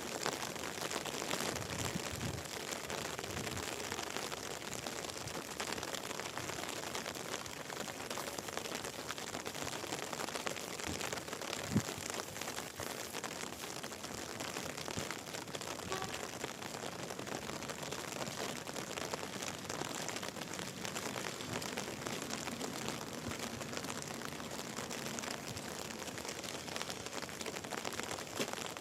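Steady rain falling, a dense patter of fine drops, with one sharp click about twelve seconds in.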